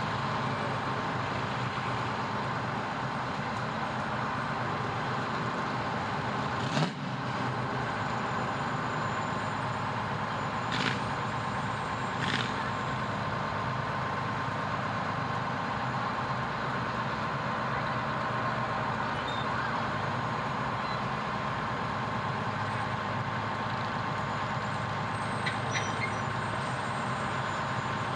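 Fire truck engine running steadily, with a constant whine through it and a few short sharp knocks, one about a quarter of the way in and two more a few seconds later.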